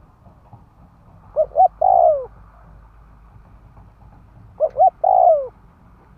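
Spotted dove cooing: two calls about three seconds apart, each two short coos followed by a longer coo that falls away at the end. It is a decoy male's call, used to lure wild spotted doves.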